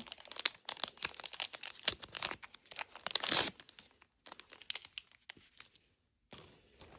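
A thin plastic packet being torn open and crinkled by hand: a dense run of crackling for about four seconds, then a shorter bout and a brief rustle near the end.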